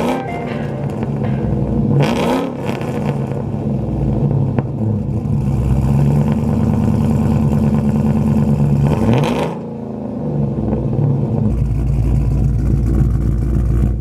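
Pickup truck's engine and MagnaFlow exhaust running steadily under way, with the engine note gliding and dipping briefly about nine and a half seconds in.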